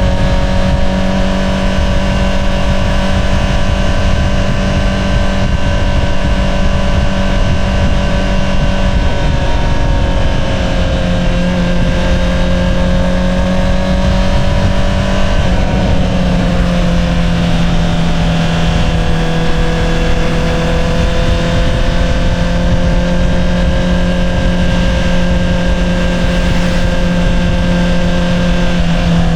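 2022 Honda CBR650R's inline-four engine through an Akrapovič single-outlet exhaust, cruising at steady revs. The pitch drifts gently, dropping a little about halfway through, over a constant low rush.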